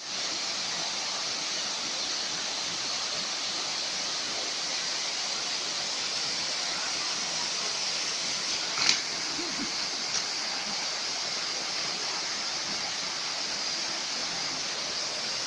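Waterfall's steady rush of falling water, with a sharp click about nine seconds in and a fainter one about a second later.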